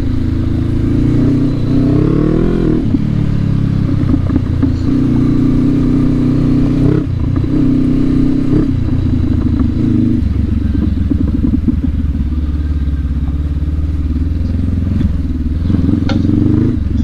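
Honda CB500X's parallel-twin engine running under load on a dirt trail, revs rising and falling with the throttle: they climb and then drop off sharply about three seconds in, change again a few times, and settle lower and steadier for the second half.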